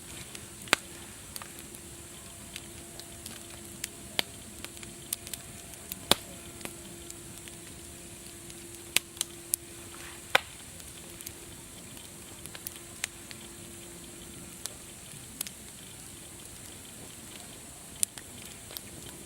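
Campfire crackling: irregular sharp pops and snaps over a steady hiss, a few louder pops standing out.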